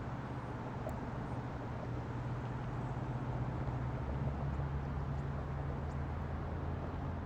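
A steady low engine hum over an even rushing noise, typical of a motor running beside fast river water.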